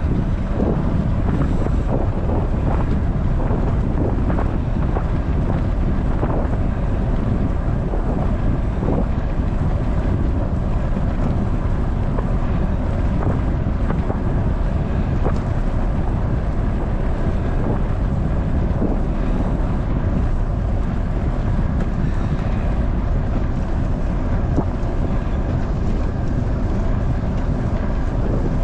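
Steady wind noise buffeting the microphone of a camera mounted on a moving bicycle.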